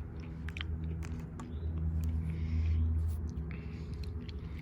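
A person eating fresh blueberries: scattered short wet clicks of biting and chewing, over a steady low hum that swells briefly about halfway through.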